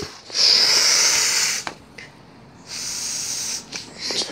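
Two steam-like hisses: a loud one lasting about a second and a half, then after a short pause a fainter, shorter one.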